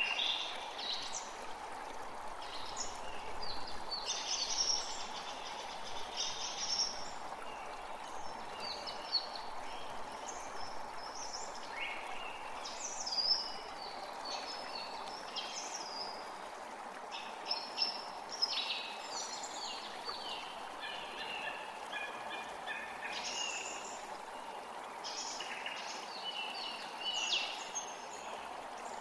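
Forest creek running steadily, with several songbirds singing over it in frequent short chirps and trills.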